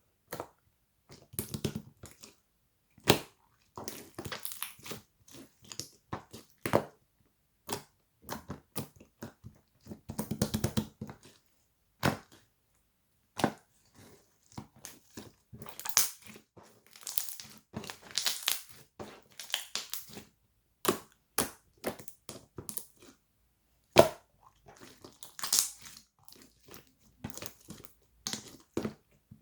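Close-up handling noises: sharp clicks and taps with short crinkling bursts, coming irregularly with brief pauses between them.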